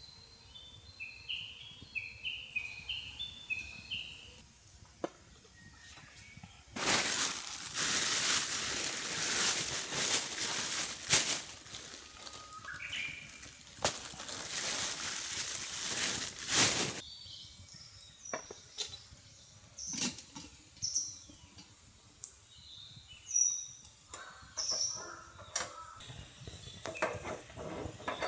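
Small birds chirping in short repeated calls, broken by a loud rushing noise that lasts about ten seconds in the middle, with a few scattered clicks.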